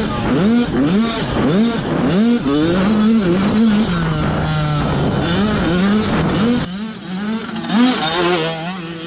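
Two-stroke 85cc motocross bikes revving hard, their engine pitch climbing and dropping again and again as the throttle is worked on and off. About seven seconds in, the sound turns thinner and hissier.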